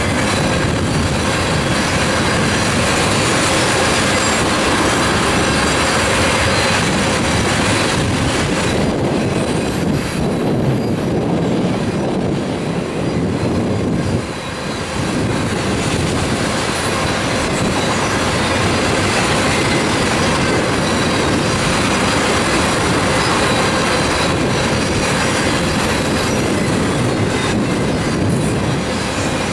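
Oil tank cars of a freight train rolling past at speed: steel wheels on the rails give a steady, loud rumble and clatter, with a few thin, steady high tones over it.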